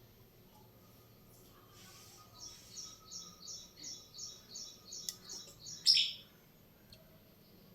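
A bird chirping: a run of about a dozen quick, high chirps, roughly three a second, starting about two and a half seconds in and ending with one louder, sharper call about six seconds in.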